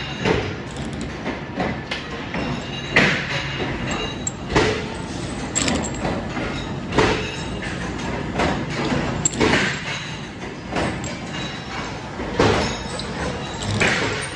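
Metalworking factory machinery running with a steady background noise, with repeated sharp metal clanks and thuds about every second or so.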